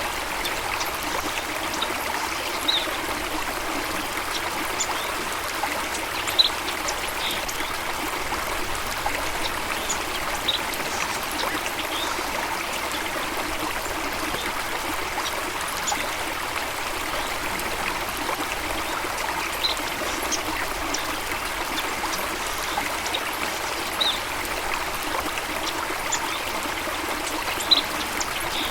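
Steady rush of running water, with short, high bird chirps scattered every few seconds.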